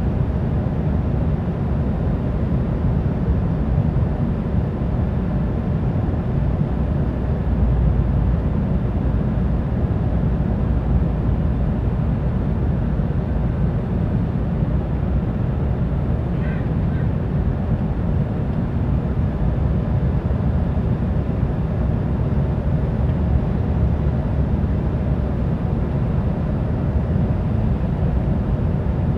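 Steady low rumble inside the cabin of an Embraer ERJ 175 airliner, the engines and airflow heard from a seat near the front.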